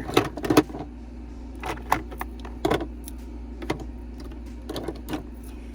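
Plastic makeup compacts clicking and tapping as they are handled and set down in an organizer, about ten short, irregular knocks.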